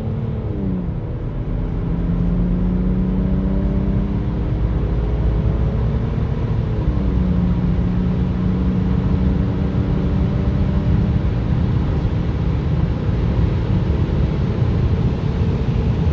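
BMW 530d's M57N2 straight-six turbodiesel, remapped and with cat and DPF removed, accelerating hard, heard from inside the cabin. The ZF six-speed automatic upshifts about a second in and again about seven seconds in: each time the engine note drops, then climbs again. Road and wind roar grow with speed until they cover the engine near the end.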